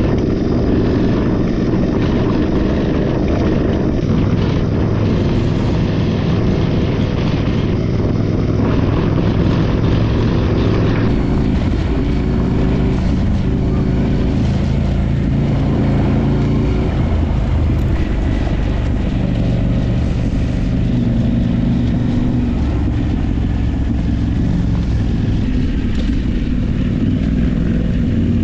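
Adventure motorcycle engine running under way off-road, its pitch rising and falling with throttle and gear changes, over wind and road noise.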